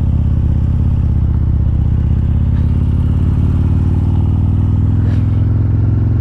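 Harley-Davidson Street Glide's V-twin engine running steadily under way, a low even rumble.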